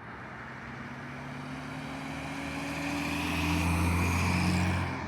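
A vehicle engine running under load. It grows steadily louder to a peak about four seconds in, then falls off abruptly near the end.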